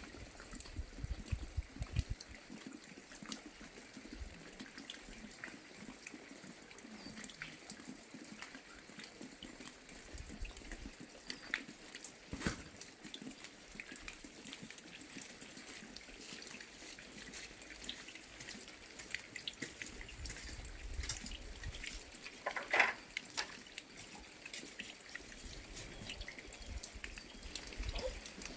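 Rain falling: a steady wash of water with scattered drops tapping irregularly, and one louder short sound a few seconds before the end.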